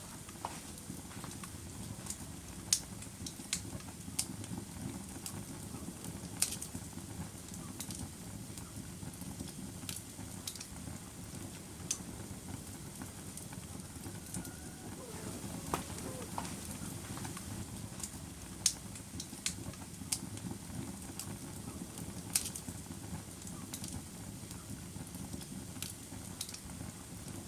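Wood fire burning, with a steady low rumble and irregular sharp crackles and pops from the burning logs.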